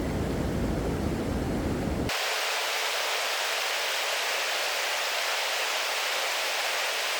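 Steady rush of a waterfall. For about the first two seconds a deep rumble is mixed in; it cuts off suddenly, leaving a bright hiss with no bass.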